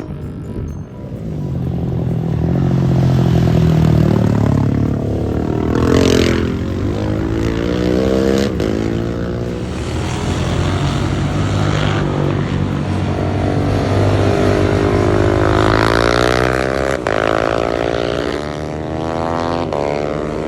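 KTM 690 SMC-R's single-cylinder engine running through a Leo Vince aftermarket exhaust, its pitch rising and falling several times as the revs go up and down.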